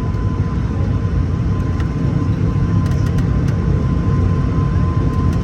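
ATR 72-600 twin turboprop engines and propellers heard from inside the cabin while taxiing after landing: a steady low drone with a thin, steady whine above it.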